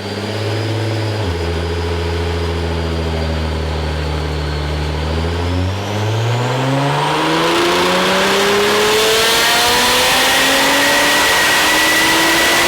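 Tuned Nissan R35 GT-R's twin-turbo 3.8-litre V6, with a cat-back exhaust, run at full open throttle on a dyno. The revs drop about a second in and hold steady for several seconds. Then they climb in one long, rising pull as a hiss builds underneath.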